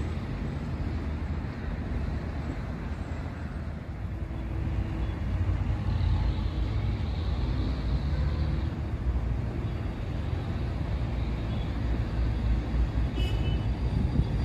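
Passenger train approaching slowly along the track: a steady low rumble that grows louder about four seconds in, with a brief high-pitched tone near the end.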